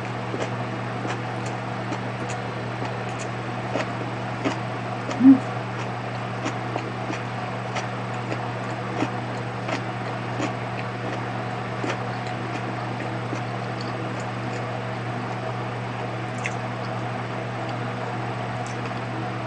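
Someone chewing a mouthful of gimbap with closed lips: soft, irregular mouth clicks over a steady electric fan hum, with one short low hum from the eater about five seconds in.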